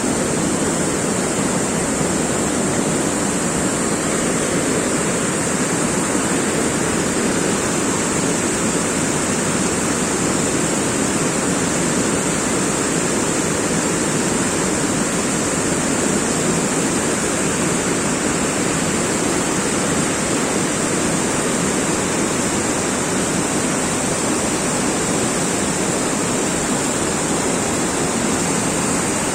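Steady, unbroken rush of water, loud and even throughout, with a bright hiss high up.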